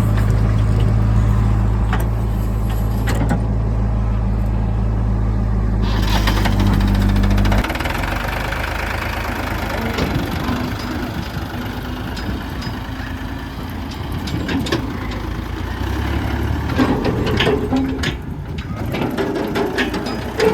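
Heavy diesel machinery at work: a diesel engine runs steadily, then cuts off abruptly about eight seconds in. A rougher, lower rumble follows, with scattered knocks and clatter toward the end.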